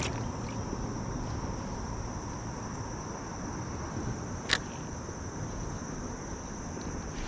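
Insects trilling steadily at a high pitch over a steady hiss of flowing creek water, with a single sharp click about four and a half seconds in.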